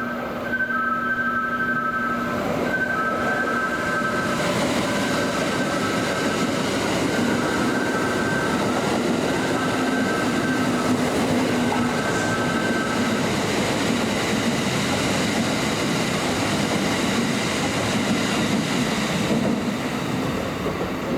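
A Kintetsu electric train running along the platform, its wheels on the rails giving a dense, steady rumble for most of the stretch. Over the first half, a repeating electronic signal alternates between two high tones.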